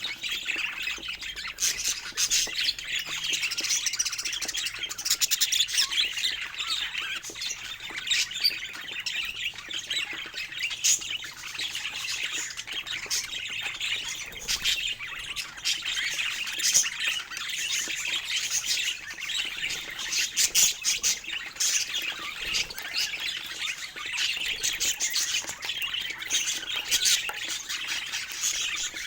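Budgerigars chirping and chattering without a break: a dense mix of warbles, short sharp chirps and squawks.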